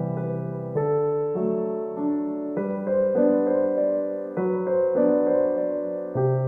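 Gentle background piano music: soft chords and notes changing every second or so.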